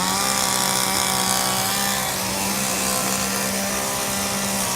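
Chainsaw running steadily at high revs, holding one even pitch.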